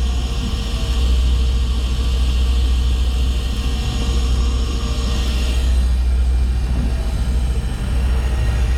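Steady low rumble on a fishing boat, typical of its engine running, with a hiss higher up that eases after about six seconds.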